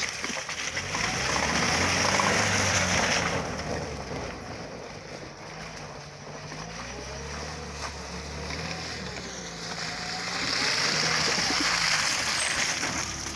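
Lada Niva's four-cylinder engine revving up and down as the car drives through deep mud. A loud rushing noise rides over it for the first few seconds and again near the end, when the car is closest.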